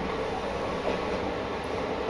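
Isumi Railway diesel railcar running steadily along the track: continuous engine and wheel-on-rail noise, heard from the front cab.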